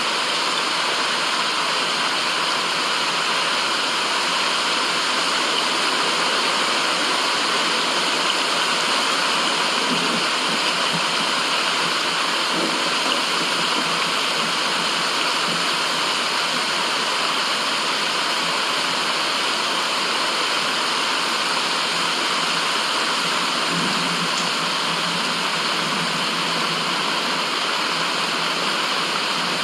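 Steady, unchanging white-noise hiss, an even rushing sound with no deep rumble beneath it.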